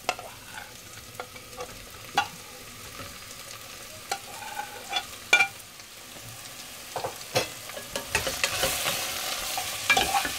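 Prawns scraped from a plate into a hot pot of fried onion and drumstick pods, with scattered knocks of a spatula against the pot and plate. From about eight seconds in, the spatula stirs them through and a louder sizzle rises.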